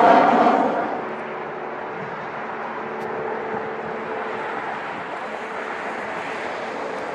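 Aircraft engine noise, loud at first and fading about a second in to a steady, lower drone with faint steady tones.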